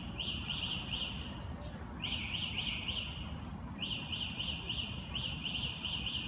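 A bird calling in short runs of quick, identical chirps, about four a second, with a run recurring every second or so. A steady low rumble of outdoor background noise lies underneath.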